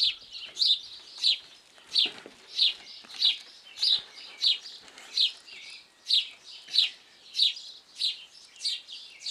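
A bird repeating one short, high, downward-sliding chirp at a steady pace, about three chirps every two seconds.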